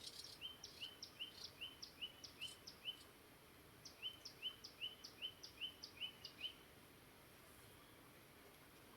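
A songbird singing two runs of quick repeated chirps, about three a second, each chirp a high downward note followed by a short lower one. The first run ends about three seconds in; the second starts about a second later and stops before the last two seconds. A faint steady stream hiss lies beneath.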